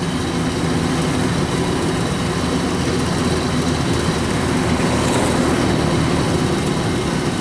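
Kubota DC93 rice combine harvester running steadily, its diesel engine and machinery holding a constant drone.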